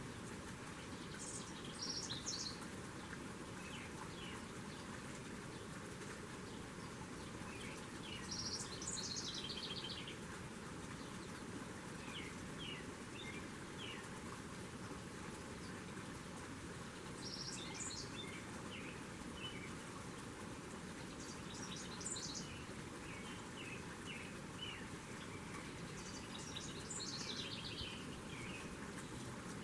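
Small songbirds singing: a short high phrase every few seconds, about five in all, with softer chirps between them, over steady background hiss.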